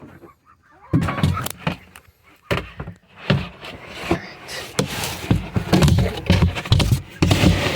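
Repeated knocks, thuds and clatter of things being handled, thickening into a denser rustling rush near the end.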